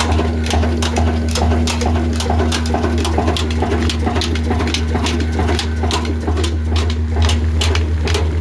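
Old stationary diesel engine running steadily at slow speed, driving a flour mill, with a deep hum and an even knock about three times a second.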